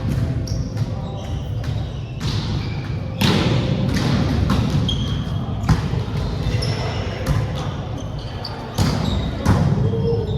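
Indoor volleyball play: repeated sharp hits and bounces of the ball, with brief high squeaks from sneakers on the court floor.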